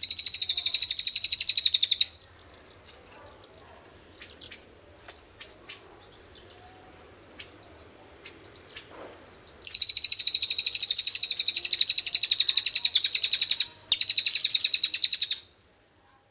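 A cililin bird giving its long, very fast trilling song ('ngriwik panjang'), high-pitched and rapid, in three bursts: one of about two seconds at the start, then a longer one of about four seconds near the middle, a brief break, and a last shorter one. Faint scattered chirps and clicks are heard between the trills.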